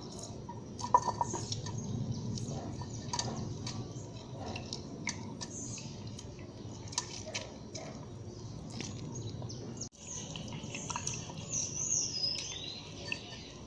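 Small birds chirping, with scattered light clicks and taps from a metal strainer and glass as a lemon is squeezed into it. The sound cuts out for an instant about ten seconds in; the chirps are clearest after that.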